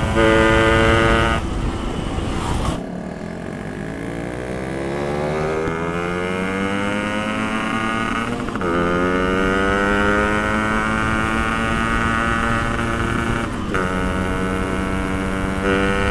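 Yamaha RX Special two-stroke single-cylinder motorcycle engine under way. The revs ease off about two seconds in, then climb steadily as it accelerates. It shifts gear twice, a short break and drop in pitch each time, about halfway through and near the end, and each time it pulls up again in the next gear. The revs jump once more just before the end.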